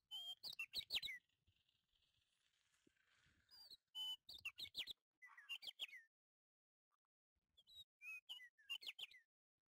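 A small bird chirping in four short bursts of quick, high chirps, with a faint hiss between the first two bursts.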